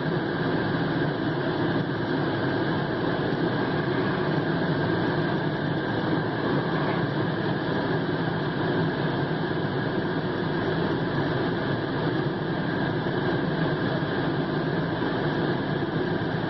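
2001 Lincoln LS engine running steadily at an even, unchanging level.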